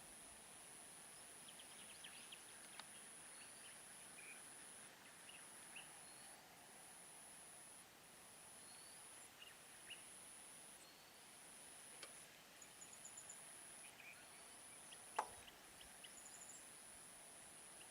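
Near silence: faint outdoor ambience with scattered bird chirps and a steady high whine that breaks off briefly about once a second, and one sharp click about fifteen seconds in.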